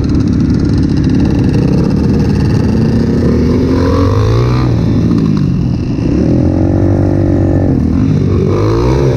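200cc Avantis pit bike's four-stroke single-cylinder engine under way on a trail ride, revving up and easing off: the pitch rises about four seconds in, falls back, rises again near seven seconds and once more near the end.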